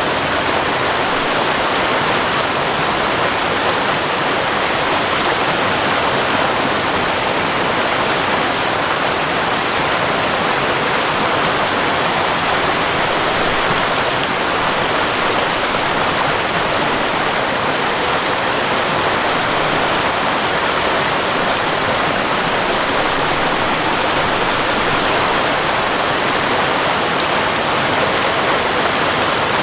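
Waterfall flowing: a steady, even rush of falling water.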